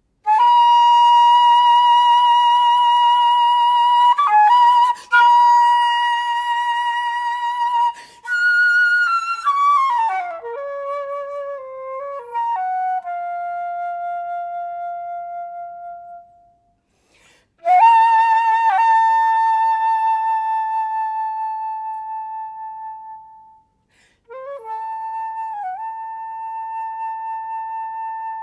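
Solo flute playing slow, long held notes with vibrato. A falling run of notes comes in the middle, and there are short breaths between phrases.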